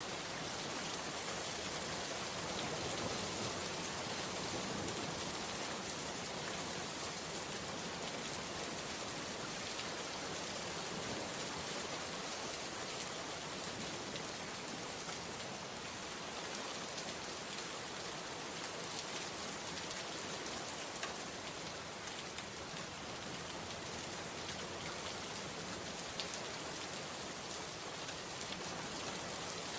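Steady rain falling, an even hiss with a few scattered individual drop ticks.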